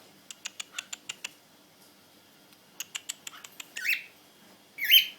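Cockatiels during a courtship display: two quick runs of sharp clicks, then two short harsh chirps about a second apart near the end.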